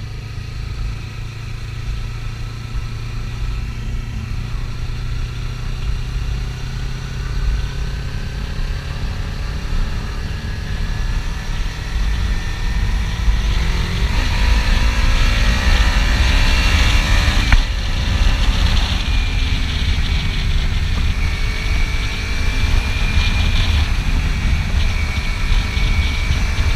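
Kawasaki Ninja 300's parallel-twin engine running under way, with wind rushing over the microphone. About halfway through the engine pitch climbs as the bike accelerates and the wind noise gets louder.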